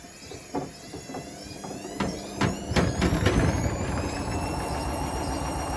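Hotpoint Smart Tech WMFUG742 washing machine with bricks in the drum going into its spin: a few loud knocks as the bricks tumble, then from about three seconds in a motor whine rises and levels off over a steady rhythmic rumble as the drum picks up speed.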